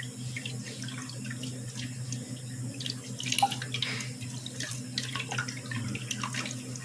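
Tap water running into a sink, with scattered splashes and light knocks as food is rinsed by hand.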